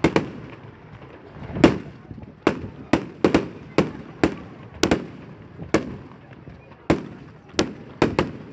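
Fireworks going off in an irregular volley of sharp bangs, roughly two a second, some followed by a short low rumble.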